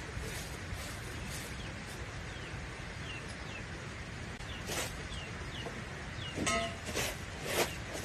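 Chickens: chicks peeping in short falling chirps, and a hen giving a clucking call about six and a half seconds in, with a few short knocks near the end.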